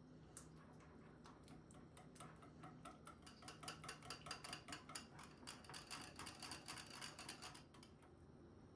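Rapid, even clinking of a utensil against a dish, about five strokes a second for some five seconds, as in whisking or stirring, over a faint steady hum.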